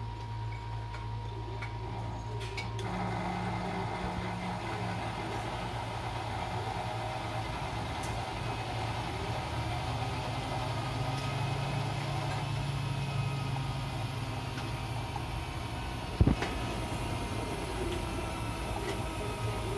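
Miele W 759 washing machine running with a steady low mechanical hum; a broader whirring noise joins about three seconds in, and a single sharp knock comes about 16 seconds in.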